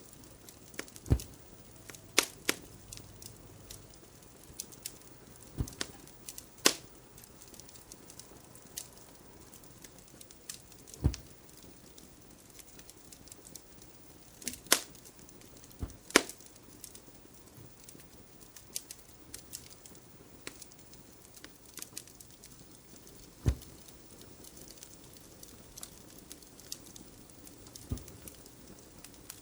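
Wood fire crackling in a fireplace: scattered sharp pops and snaps at irregular intervals over a faint hiss, a few of them with a duller knock.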